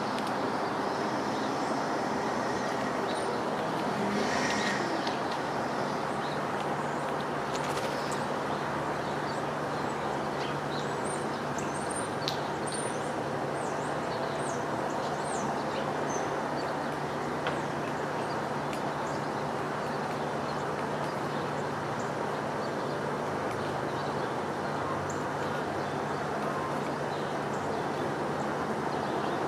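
Small songbirds giving short, high chirps, most of them in a cluster around the middle, over a steady background hiss with a low hum.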